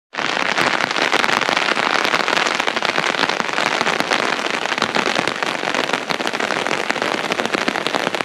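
Steady rain falling, a dense crackling patter of drops.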